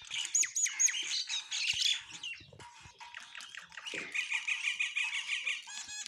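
Several small birds chirping and calling over one another in a dense run of short chirps and trills, thinning for a moment about halfway through.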